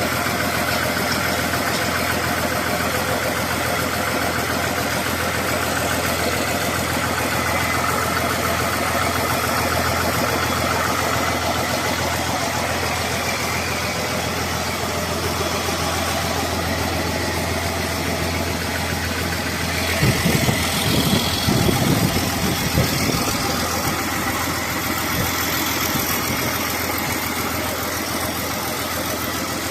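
Diesel engine idling steadily. About twenty seconds in, a couple of seconds of louder, irregular low thumping sounds over it.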